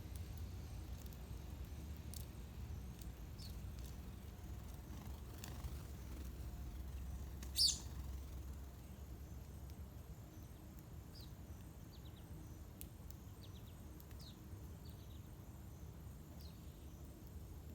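Small birds chirping: short high chirps scattered throughout, with one louder chirp a little under halfway through. A low background rumble fades out after about eight seconds.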